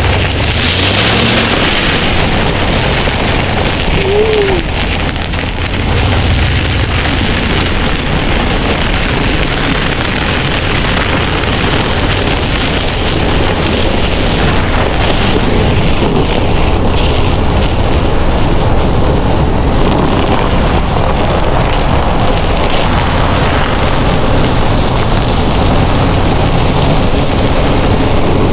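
Ram 1500 pickup driving on a snow- and ice-covered road, engine running under a steady rush of tyre and slush noise, with a brief faint whine about four seconds in.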